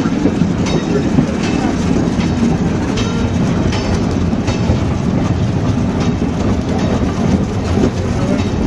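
Open railroad passenger car rolling along the track: a steady rumble, with irregular clicks as the wheels pass over rail joints.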